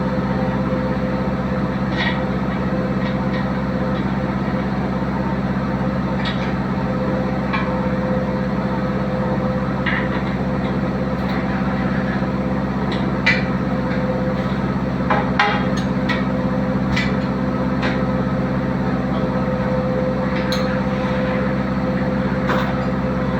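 A diesel engine running steadily, with scattered sharp metallic clicks and taps over it, a few louder ones in the middle.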